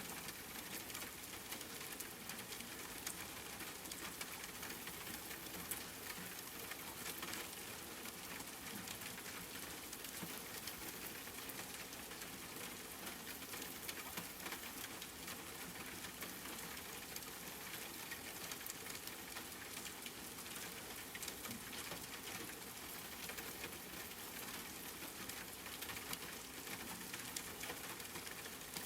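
Steady rain: many small drops ticking over an even hiss.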